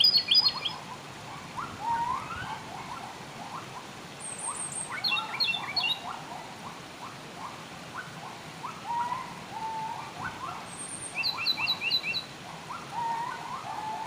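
Wild birds chirping and calling: a steady stream of short chirps, with quick runs of four or five high notes twice, over a continuous hiss of flowing water.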